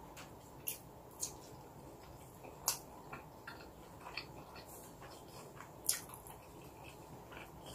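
Close-up mouth sounds of chewing a mouthful of longganisa sausage and rice: irregular soft, wet clicks and smacks every second or so over a faint hiss.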